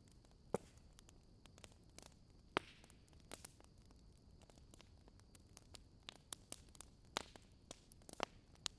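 Wood campfire crackling: irregular sharp snaps and ticks, with a few louder pops about half a second in, near three seconds, and twice near the end.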